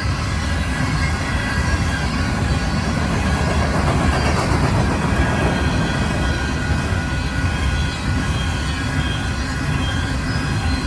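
Union Pacific grain train's covered hopper cars rolling past at a crossing: a steady, loud rumble of wheels on rail, with thin high squealing tones from the wheels over it.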